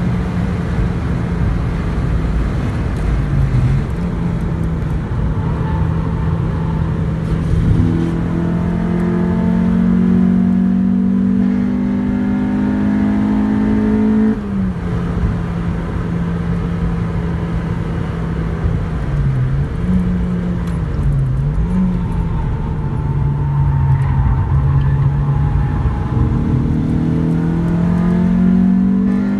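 Honda Civic Type R (EP3)'s 2.0-litre i-VTEC four-cylinder engine pulling hard, heard from inside the cabin over tyre and wind noise. Its pitch climbs slowly for about fourteen seconds, drops suddenly, dips and wavers lower for a while, then climbs again near the end.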